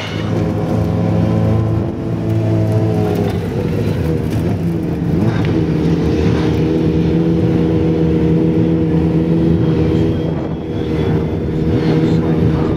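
Racing sidecar outfit's engine idling, with a short dip and recovery in revs about five seconds in before settling steady again.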